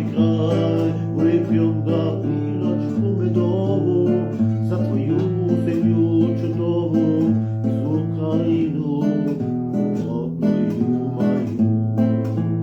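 Acoustic guitar strummed in a steady rhythm, with a held bass note under the chords: an instrumental passage of a sung song.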